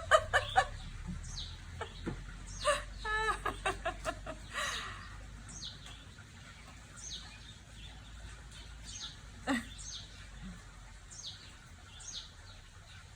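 Small birds chirping: short, high chirps that slide downward, repeating about once a second.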